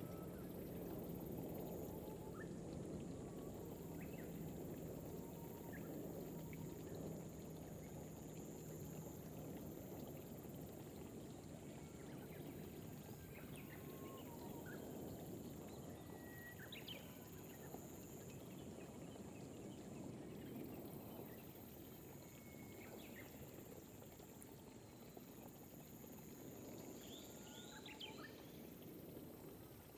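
Gentle rain falling steadily on rice paddies, a soft even patter, with occasional short bird chirps scattered through it.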